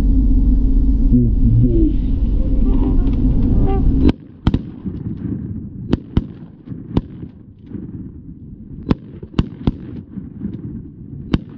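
Several shotguns firing a ragged volley at incoming Canada geese, about eight sharp shots spread over seven seconds, some in quick pairs. Before the shooting starts, about four seconds in, there is a loud low rumble that cuts off abruptly.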